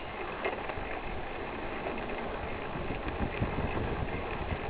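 Recumbent bicycle rolling over a hard-packed dirt and gravel trail: steady tyre noise with scattered small clicks and rattles from the bike.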